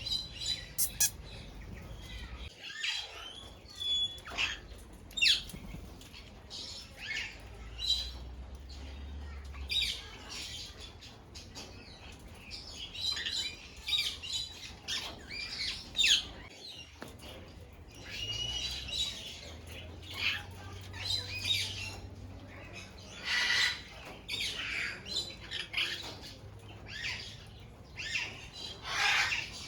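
Parrots squawking and calling, many short calls in quick succession, several birds at once.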